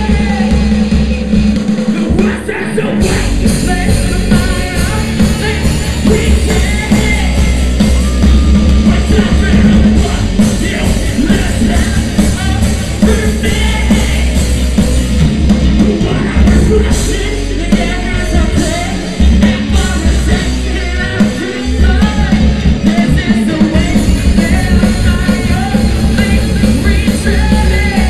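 Live post-hardcore rock band playing loud: distorted guitars, bass and drum kit, with a singer's voice over them.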